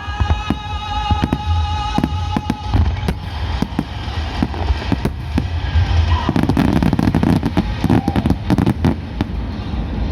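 Aerial fireworks shells bursting in quick succession: many sharp bangs and crackles over a deep rolling rumble, busiest in the second half. For the first few seconds a held musical chord sounds under the bursts.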